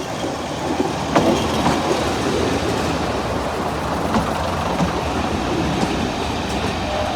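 Class 115 diesel multiple unit running on the rails: a steady rumble with a few clicks from the wheels, and a brief tone near the end.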